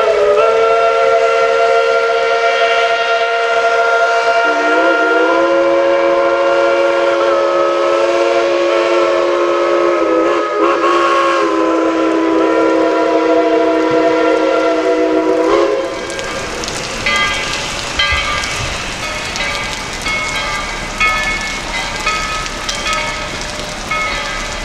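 Steam locomotive chime whistles blowing a long blast together: one chord sounds from the start, a second, lower chord joins about four seconds in, and both cut off together about sixteen seconds in. A steady hiss with faint scattered tones follows.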